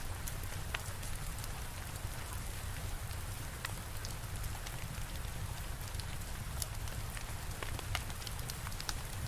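Steady rain falling, with a low rumble underneath and scattered sharp crackles and pops from a wood fire.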